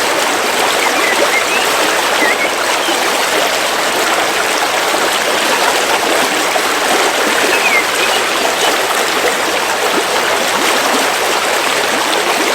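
River water flowing steadily over rocks, a constant rushing and babbling. A few faint, short bird chirps come through it now and then.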